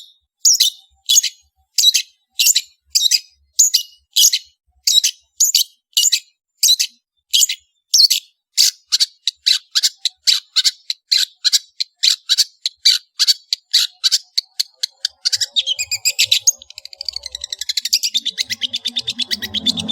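A songbird repeating a short, sharp high call about twice a second, quickening after about eight seconds, then breaking into a fast continuous chattering trill near the end.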